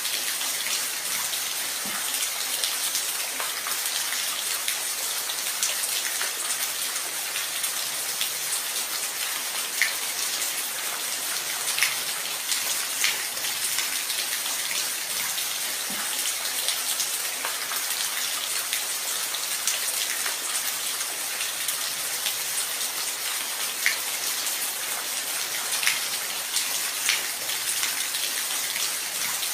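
Steady rain falling, an even hiss with individual drops pattering and ticking on a surface now and then.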